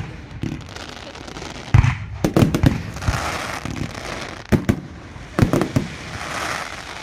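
Fireworks display: aerial shells bursting in quick clusters of sharp bangs, with a noisy haze between them.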